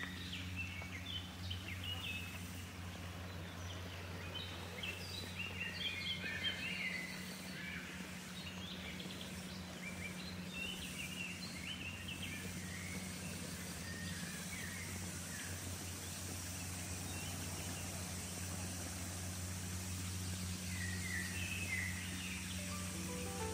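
Birds chirping in short bursts, busiest in the first several seconds and again near the end, over a steady low hum.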